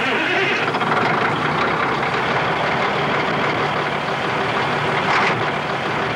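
Semi truck's engine and road noise heard from inside the cab: a steady, loud rumble.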